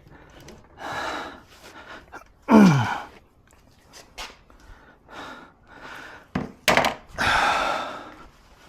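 A man breathing hard and letting out a falling groan of effort, with two or three sharp clicks of plastic parts near the end, followed by a long exhale.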